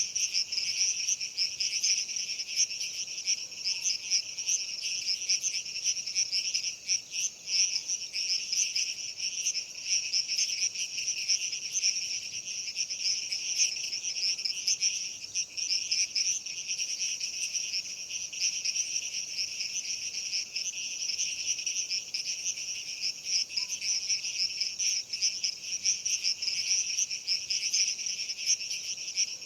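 A dense chorus of crickets chirping without a break, a steady high-pitched shimmer.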